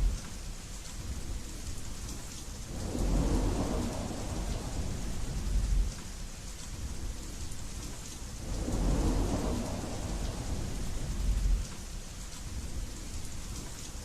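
Steady rain hissing, with thunder rumbling twice: once a few seconds in and again past the middle, each rumble swelling for about three seconds and then cutting off suddenly.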